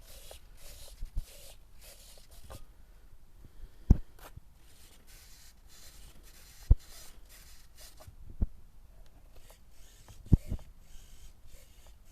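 Handling noise: soft rustling and rubbing, broken by about five short, dull knocks a couple of seconds apart.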